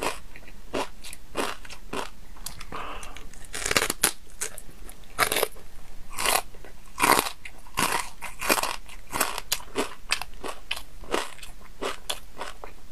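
Close-up chewing and crunching of a crispy, spice-crusted strip of pork belly: irregular crisp crunches and bites with wet chewing between them.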